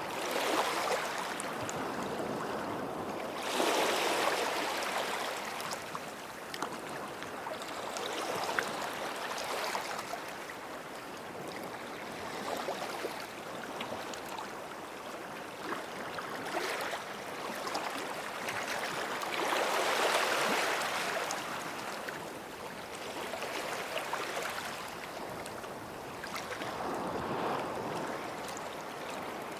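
Small sea waves washing up on a sandy shore. The wash swells and eases every few seconds, loudest about 4 and 20 seconds in.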